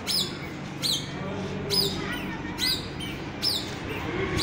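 A bird's short, high chirp, repeated at a steady pace of about one call every second. Each call drops sharply in pitch.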